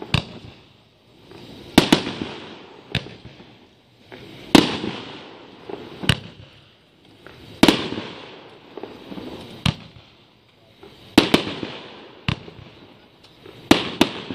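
A 25-shot 500-gram consumer fireworks cake (Fuxiang's The Governor) firing its shots one after another: a sharp bang every second or so, each followed by a fading tail.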